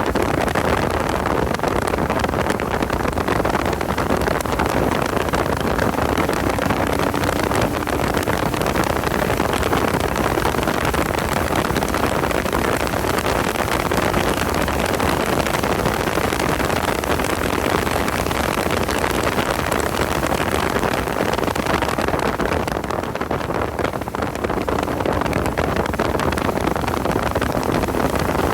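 Porsche 986 at speed on track: wind rush on the microphone over its flat-six engine running steadily, easing off briefly about three-quarters of the way through.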